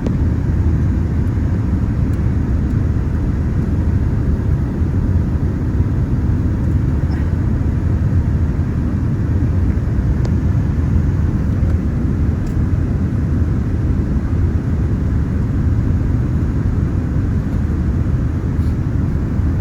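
Steady low rumble inside the cabin of a Boeing 787-10 airliner in flight: engine and airflow noise, unchanging throughout.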